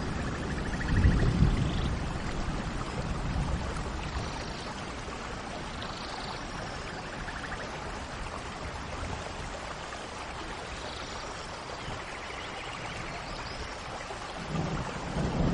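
Steady rain falling, with small birds chirping and trilling now and then over it. Low thunder rumbles about a second in and again at the very end.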